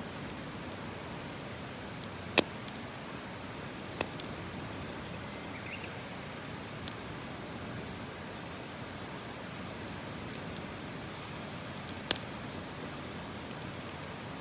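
Wood campfire burning: a steady hiss broken by a few sharp crackling pops, the loudest about two and a half seconds in and another near twelve seconds.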